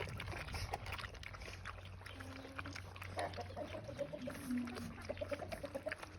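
Puppies eating noisily: many small wet smacking and lapping clicks, with a few short pitched sounds in the second half.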